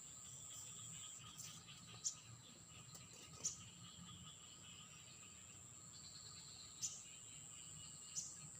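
Faint, steady high-pitched drone of insects, with four brief sharp chirps spread through it.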